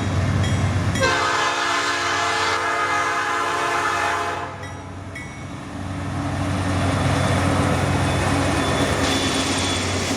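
Diesel freight locomotive air horn sounding: one blast cuts off right at the start, and a long blast follows from about a second in to four and a half seconds. After it come the low, steady rumble of the lead locomotives' diesel engines and rail noise as the train rolls by.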